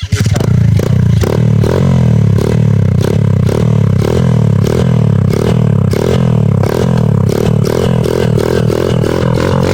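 A 140cc pit bike's single-cylinder engine running loud close to the microphone. It comes in suddenly and keeps up a regular pulsing rhythm about two or three times a second.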